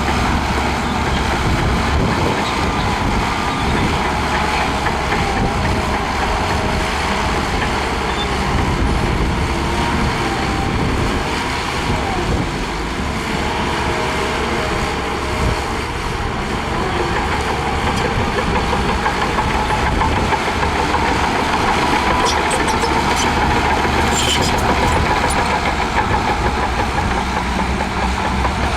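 Heavy diesel engine of a Shantui DH17C2 bulldozer running steadily while pushing sand, with a slight dip in loudness about halfway through and a few sharp clicks near the end.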